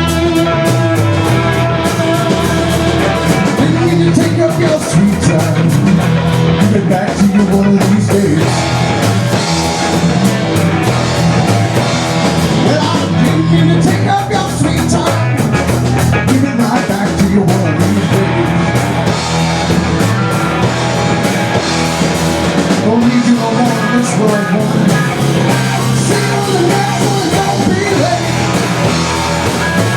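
Rock music led by electric guitar, playing loudly and steadily.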